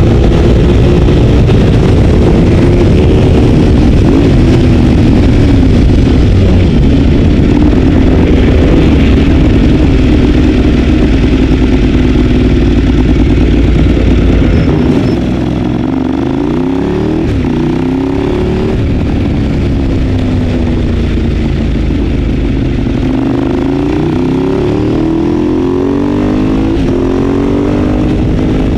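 Ducati 848's L-twin engine at racing revs, heard from onboard the bike. The note holds high under throttle, then about halfway the throttle closes and the pitch falls in steps through downshifts before climbing again through the gears near the end.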